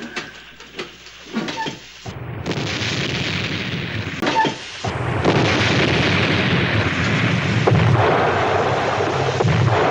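Submarine ballast tanks being blown with compressed air as the U-boat surfaces: a loud, steady rushing hiss and rumble that starts about two seconds in, breaks off briefly near the middle, then comes back louder.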